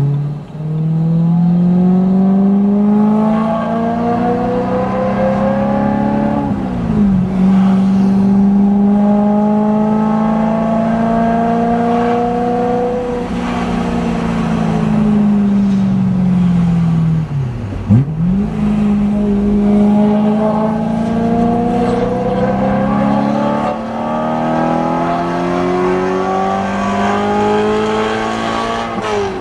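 BMW M3 (E92) 4.0-litre V8 running through a Kreissieg valvetronic cat-back exhaust while driving on the street. The engine note climbs slowly and drops sharply at gear changes, twice in the middle and once near the end.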